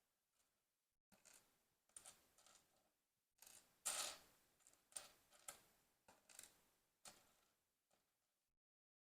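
LEGO pieces and their plastic packaging being handled: a string of short clicks and rustles, each fading quickly, the loudest about four seconds in.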